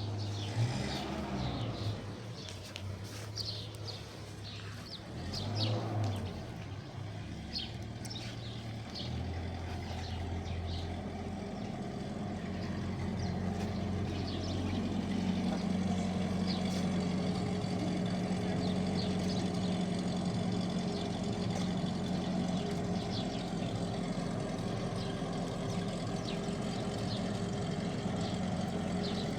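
A vehicle engine running steadily, growing louder and holding a steady note from about halfway through, with birds chirping.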